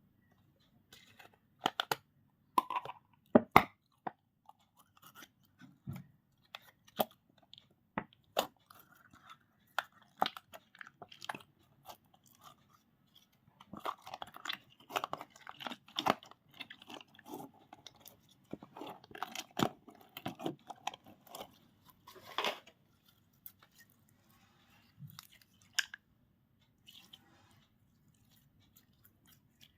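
Slime being squished and mixed by hand, making irregular sticky pops and crackles. They come in clusters with short quiet gaps and are busiest past the middle.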